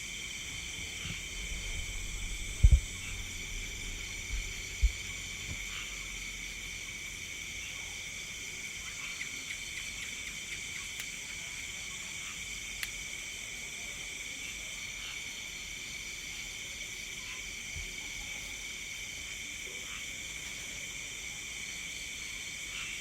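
A steady chorus of night insects, several high-pitched shrilling trills layered together. A few low thumps come about three and five seconds in.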